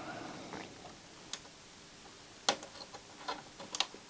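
A few sharp, separate clicks and taps of small electronic parts and tools being handled on a CD player's circuit board, the loudest about two and a half seconds in and a quick pair near the end.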